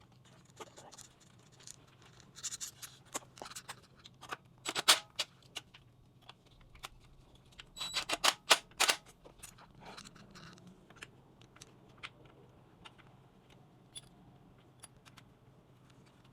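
Scattered sharp clicks and light metallic knocks of hand tools and small parts being handled during motorcycle repair work, with two busier bursts, one a few seconds in and one around the middle.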